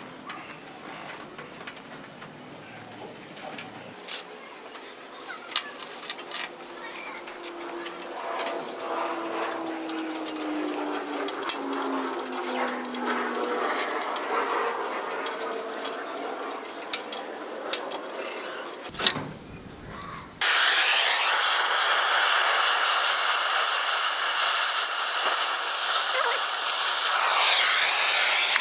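Scattered light clicks and knocks, then about 20 seconds in a loud steady hiss starts abruptly: an oxy-fuel gas cutting torch blowing.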